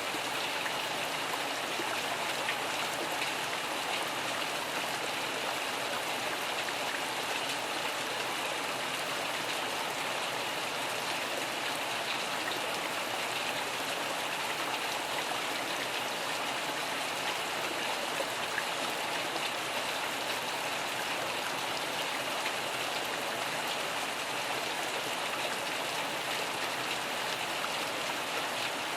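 Steady, even rain falling, with no change in strength.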